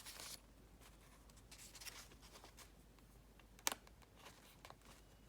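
Faint rustling of the journal's paper pages being handled and turned, with one short sharp click a little past halfway.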